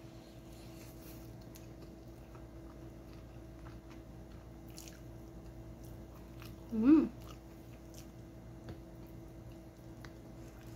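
A person chewing a mouthful of spaghetti, with faint mouth noises and scattered light clicks. About seven seconds in comes one brief voiced hum that rises and falls in pitch, the loudest sound. A steady low hum runs underneath.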